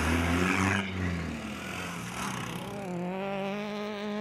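Peugeot hatchback rally car's engine revving, its pitch rising and falling, with a hiss that stops under a second in. The engine then settles into a steadier, slightly wavering note.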